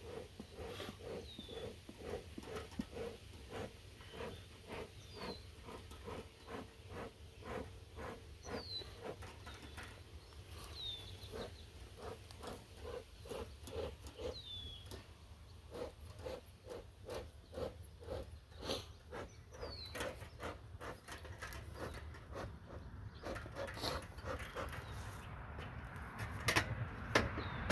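Bee smoker's bellows pumped in a steady rhythm, about two puffs a second, to get the fuel burning. A bird repeats a short falling chirp through the first half.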